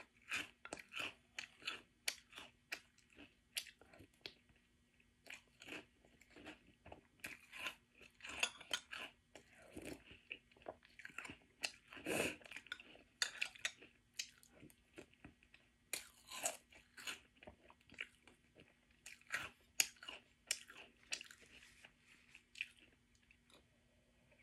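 Close-up chewing of General Mills French Toast Crunch, a crisp sweetened corn cereal: a quick, irregular run of sharp crunches with short pauses between mouthfuls.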